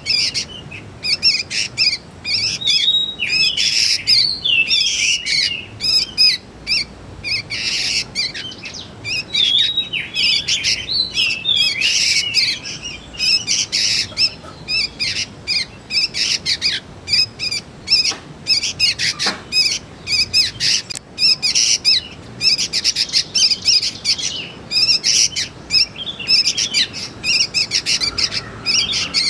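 Young sooty-headed bulbuls calling: a continuous stream of rapid, high chirps and squeaky notes.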